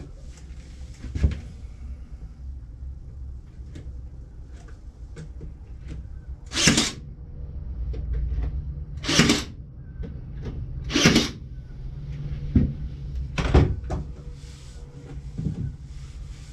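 Staple gun fastening cedar picket pieces: three loud, short, sharp shots about two seconds apart, with lighter knocks and clicks of the wood being handled before and after.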